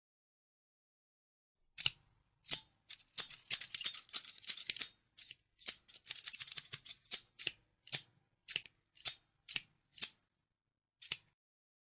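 Scissors snipping: silent at first, then sharp snips, two quick flurries of rapid cutting, and then single snips about every half second.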